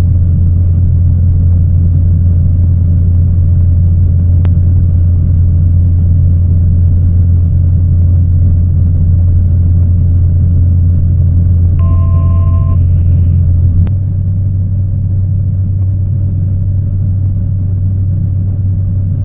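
Cessna 208B Caravan's single Pratt & Whitney PT6A turboprop and propeller heard on board as a loud, steady low drone, which eases slightly in level and pitch about fourteen seconds in. A short two-note electronic beep sounds about twelve seconds in.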